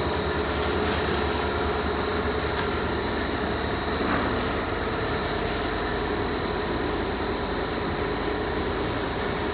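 Factory machinery running steadily: a constant hum and rumble with a steady high-pitched whine.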